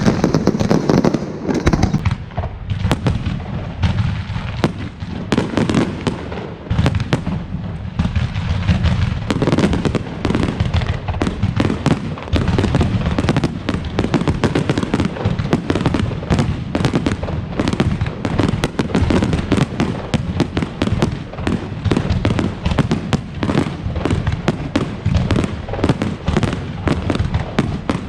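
Fireworks display going off in a continuous barrage, a rapid string of sharp bangs, many each second, with no break.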